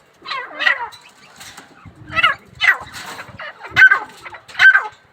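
Grey francolin calling: a series of loud, harsh, shrill notes, each sliding down in pitch. They come in pairs at first, then settle into a steady repeat about once a second.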